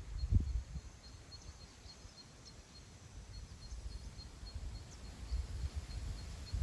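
Wind gusting across the microphone in open grassland, a low buffeting rumble that is strongest just after the start, eases in the middle and picks up again near the end. Behind it a faint, high chirp repeats evenly, about three times a second.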